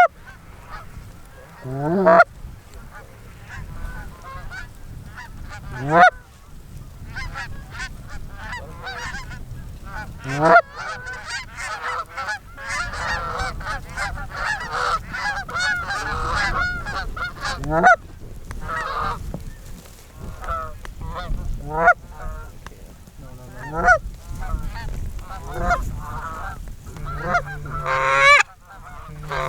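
A flock of Canada geese honking as it passes overhead, many overlapping honks thickest midway through, with louder single rising honks every few seconds.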